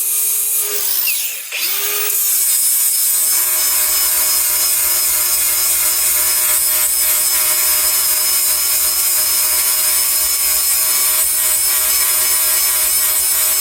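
Hand-held power grinder sharpening a steel cutting tooth on the mill of a Bandit Beast 4680 wood grinder: a steady motor whine with the hiss of the wheel on metal. It stops briefly about a second in, then spins back up and runs steadily.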